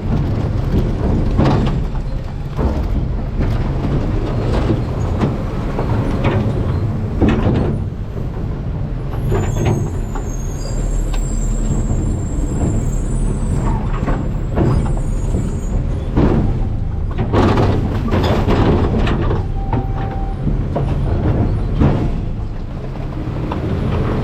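Garbage truck's engine running with trash being handled in the rear hopper: repeated clanks, knocks and crunches over a steady low rumble. A high squeal lasts a couple of seconds near the middle.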